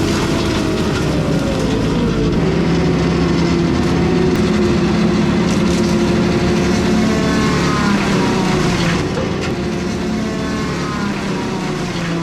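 A heavy machine's engine running hard under load, a steady loud drone. Higher whining pitches glide up and down in the second half.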